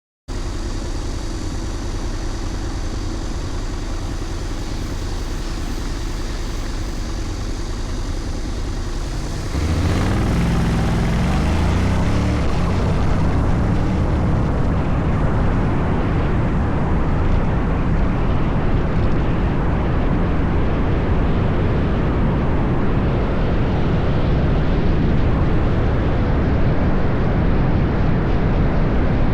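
Honda Forza 750 maxi-scooter's parallel-twin engine idling steadily, then pulling away about ten seconds in with a few rising engine notes as it accelerates. After that, a steady engine rumble and wind noise while riding.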